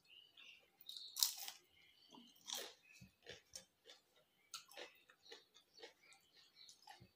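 A person biting and chewing a crunchy fried cauliflower pakoda, with two loud crunches about a second in and again at two and a half seconds, then a run of soft, quick chewing clicks.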